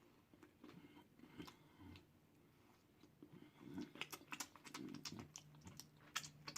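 Faint chewing and wet mouth clicks of someone eating a deep-fried turkey tail, the clicks coming thicker and a little louder from about three and a half seconds in.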